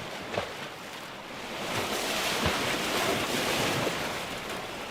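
Sea waves washing on the shore with wind on the microphone; the wash swells about two seconds in and eases again.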